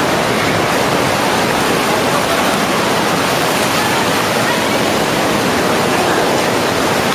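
Rushing water of a waterfall and mountain stream: a loud, steady roar.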